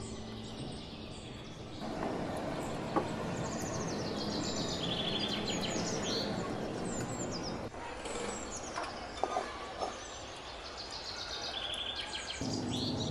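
Small birds chirping again and again over a steady outdoor background hiss, with a few faint clicks.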